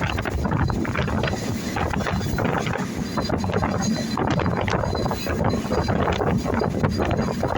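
A moving train: a steady rumble with a dense, irregular rattle of wheels and carriage, and a faint high squeal.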